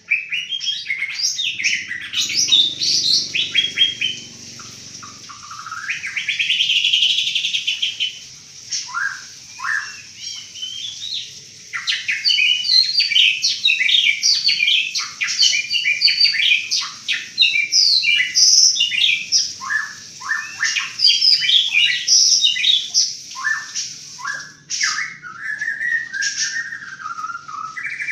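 White-rumped shama (murai batu, Banten type) singing loud, fast bursts of varied song: sharp rapid notes, trills and whistles fired off in quick succession, the rapid-fire 'shooting' style that shama keepers prize. A buzzing trill comes about six seconds in, and lower slurred whistles come near the end.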